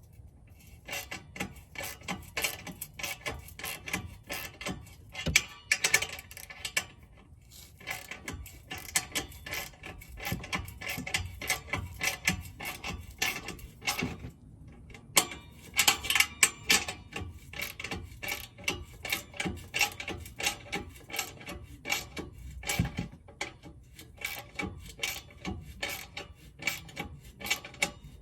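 Ratchet wrench clicking in quick runs with short pauses, tightening the clamp bolt of an exhaust tip.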